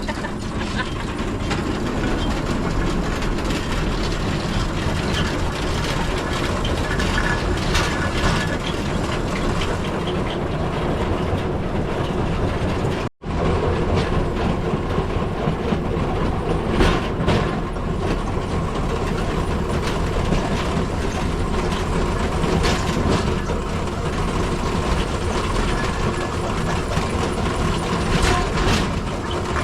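Pedal rail bike (velorail) rolling along old railway track: steel wheels running on the rails with a steady rumble and scattered clicks. The sound drops out for an instant near the middle.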